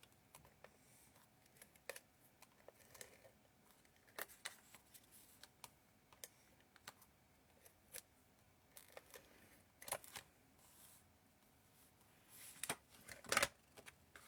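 Faint, scattered clicks and paper handling as double-sided adhesive from a tape runner is applied to cardstock, with a few short, louder rasps near the end.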